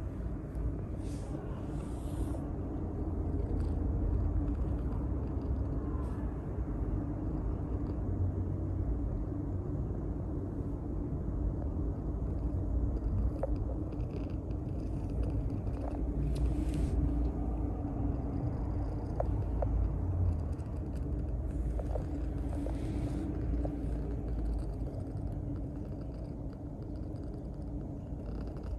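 Maine Coon cat purring close to the microphone, a steady low rumble while it kneads.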